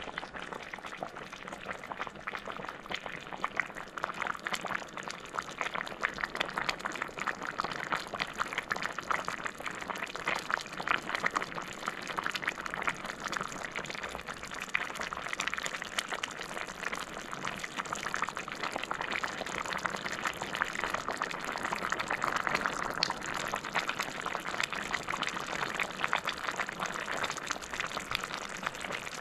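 Chicken pilaf cooking in a hot pot: a steady, dense crackle of sizzling and bubbling that starts abruptly.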